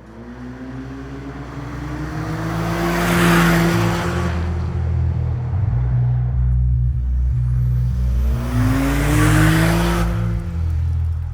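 2023 GMC Canyon AT4X's 2.7-litre turbo four-cylinder accelerating twice through a Magnaflow Overland Series exhaust. Each time the exhaust note rises in pitch, levels off and swells, loudest about three and nine seconds in.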